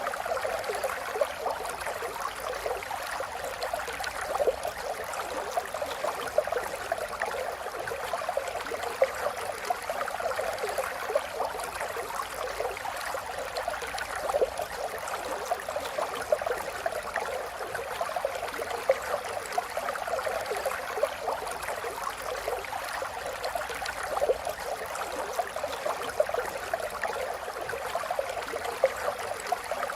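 Running water trickling and gurgling steadily, with many small splashes through it.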